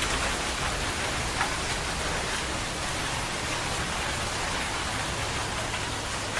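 Steady rain falling and hitting surfaces, an even hiss with no break.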